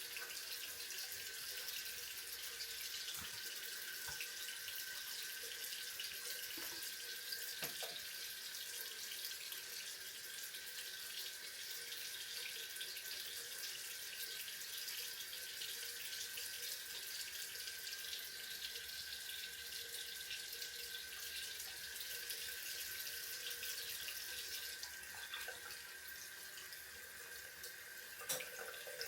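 Bathroom sink tap running steadily into the basin, an even hiss of water with a faint steady tone in it. A short knock comes near the end.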